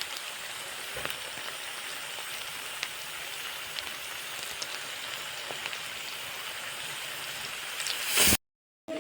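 Steady sizzle of food frying in oil in a pan, with a few faint clicks. It swells briefly near the end, then cuts off abruptly to silence.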